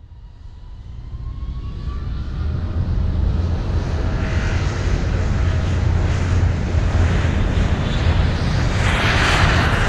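Helicopter rotor and engine noise growing louder over the first few seconds as it comes in, then steady and loud with a deep rumble. A louder rushing hiss comes near the end.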